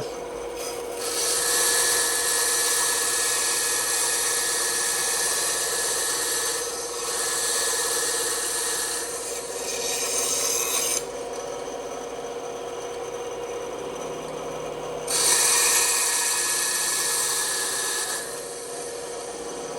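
Bandsaw running with a steady hum while its blade cuts through wood in three spells of several seconds each, the cutting noise dropping back between them.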